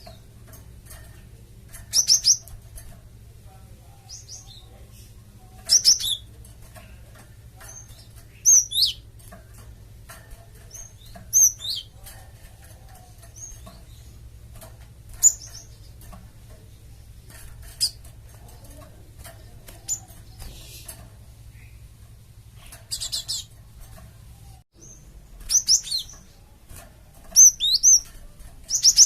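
Cinereous tit (gelatik batu) giving short, high-pitched chirping calls in brief bursts every two to four seconds, clustering more closely near the end, over a faint steady low hum.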